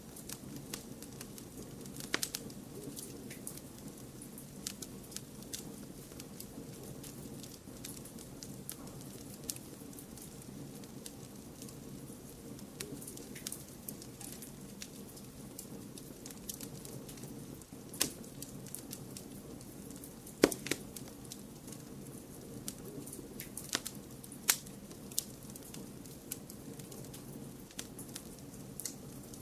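Wood fire crackling in a fireplace: a steady low hiss with irregular sharp pops and snaps, a few louder pops standing out.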